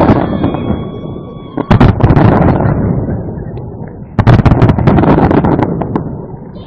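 Aerial fireworks shells bursting in three loud volleys, each a quick cluster of sharp bangs with a rumbling tail, about two seconds apart.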